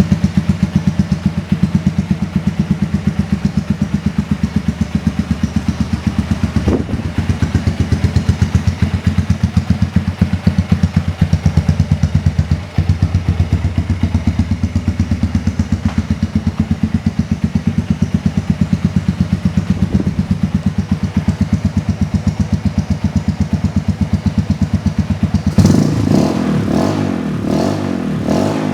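Honda FTR223's air-cooled single-cylinder four-stroke engine idling through an aftermarket custom muffler, with a steady, even thump of exhaust pulses. Near the end the throttle is blipped several times in quick succession, giving short revs.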